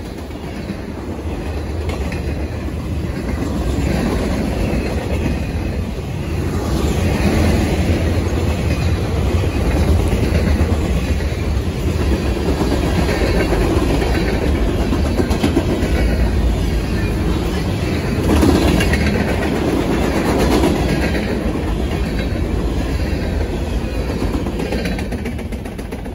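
Freight train cars (covered hoppers, boxcars and gondolas) rolling past on steel wheels: a steady rumbling rolling noise that fades near the end as the last car goes by.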